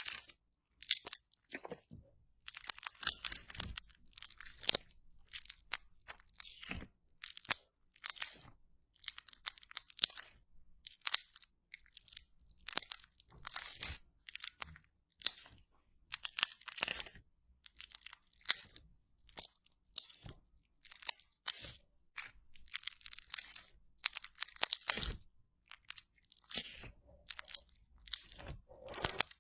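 Slime being squeezed and pressed close to the microphone, giving a string of crunchy crackling pops in irregular clusters with short pauses between.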